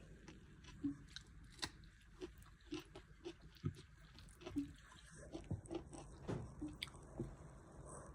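Someone chewing food, with irregular soft clicks and smacks about every half second.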